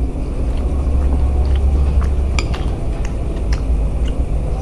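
A person chewing food close to the microphone: scattered small clicks and smacks of eating, over a steady low hum.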